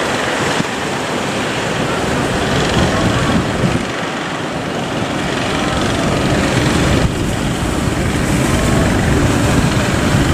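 Motors of fishing boats running steadily, mixed with surf and wind noise on the microphone.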